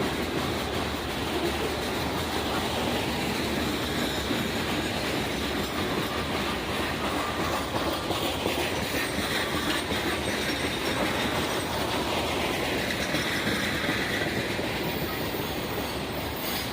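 A train rolling past on the rails, its wheels clattering steadily over the rail joints, with some high wheel squeal rising and falling through the middle.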